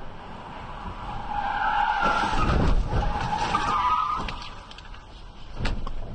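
Car tyres squealing in a skid for about three seconds under hard braking, followed by a sharp bang near the end.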